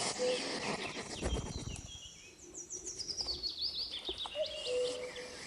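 Small birds chirping, with a quick run of high chirps falling in pitch in the middle, and brief steady whistle-like notes near the start and near the end.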